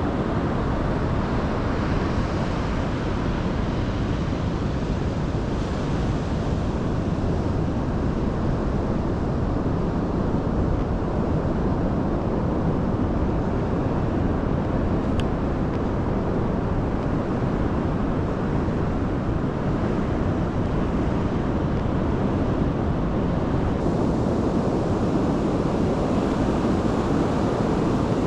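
Steady low roar of ocean surf mixed with wind, with no pauses or changes in level.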